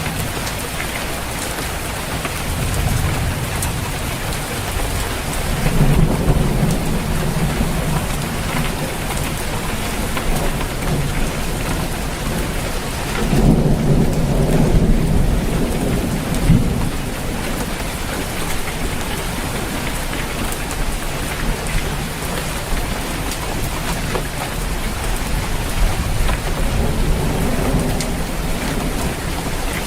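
Rain falling on a roof, a steady hiss, with thunder rumbling low twice: about six seconds in and again around the middle, with a weaker roll near the end.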